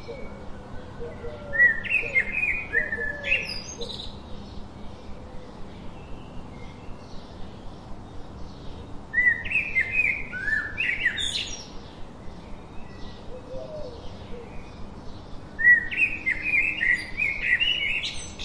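Songbird singing three phrases of quick chirping notes, about six seconds apart, each ending in a high upward sweep. Fainter birds chirp steadily behind, with short lower calls now and then.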